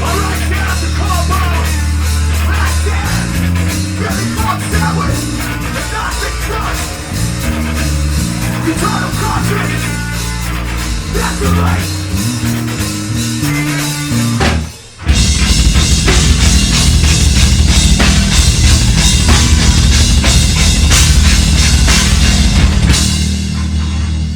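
Live heavy metal band playing: distorted guitars, bass and drum kit. The music breaks off abruptly about fifteen seconds in, then comes back louder and denser.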